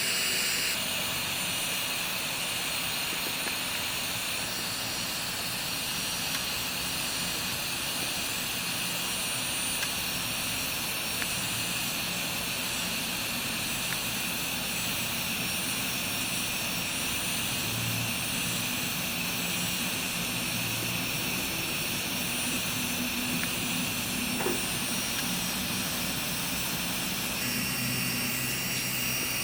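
High-speed electric foot-care drill (rotary file) running steadily against hard skin during corn removal: a continuous high whirring hiss whose pitch shifts slightly a few times.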